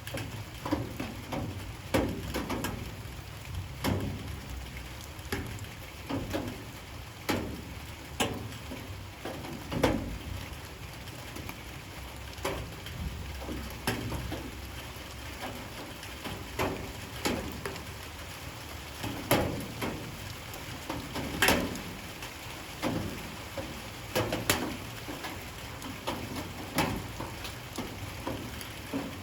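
Light rain: single drops falling irregularly onto a hard surface, each a sharp tap, about one or two a second, over a faint steady low hum.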